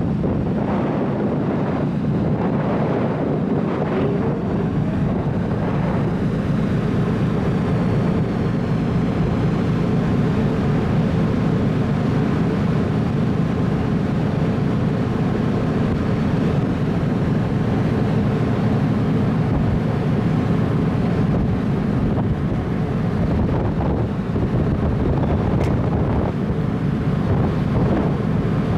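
Steady low drone of the car ferry Akatsuki Maru's engines under way, with wind buffeting the microphone on deck.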